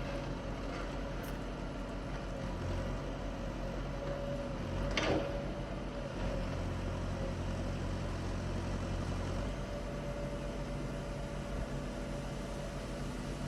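Engine of a heavy machine running steadily while uprooting tree roots, working harder for a few seconds in the middle, with one short sharp sound about five seconds in.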